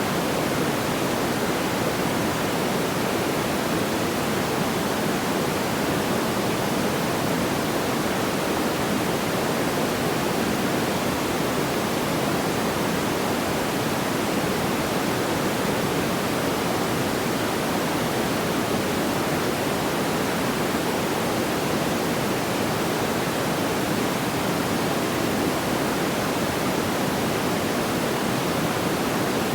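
Steady, even rushing noise, like pink noise, with no distinct crackles or pops.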